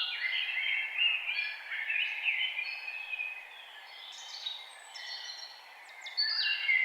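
Several forest birds singing at once, short whistled and chirping phrases overlapping one another, thinning out for a couple of seconds in the middle and picking up again near the end, over a steady faint background hiss.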